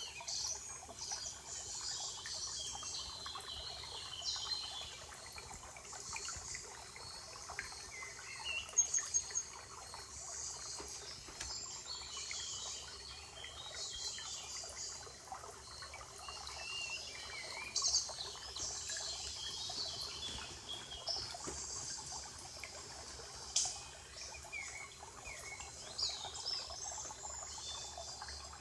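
A chorus of forest birds chirping and singing, many short high calls overlapping, with a few louder single notes standing out.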